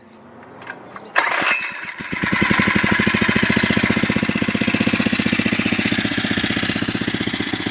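Phatmoto 79 cc single-cylinder four-stroke engine starting about a second in, then settling into a steady, even idle. It is quiet.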